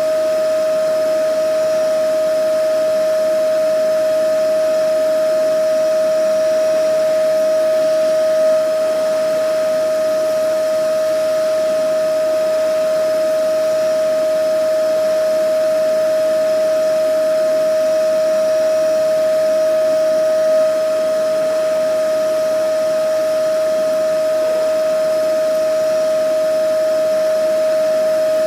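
Vacuum cleaner motor running steadily: a constant high whine over even airflow noise, with no change in speed.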